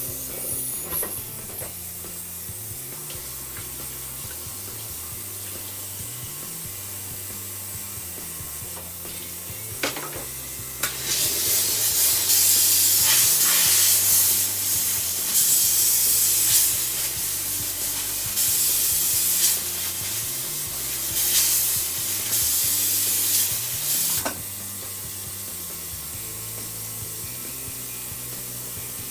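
Jewelry steam cleaner jetting in several hissing bursts, each a second or two long, from about eleven seconds in to about twenty-four seconds in, cleaning polishing-compound wax off a freshly polished sterling silver buckle.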